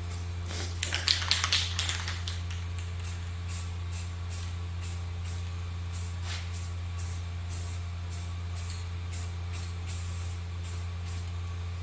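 Rust-Oleum Rust Reformer aerosol spray can hissing in short, repeated bursts, about two a second, as a light coat goes onto the parts. A steady low hum runs underneath.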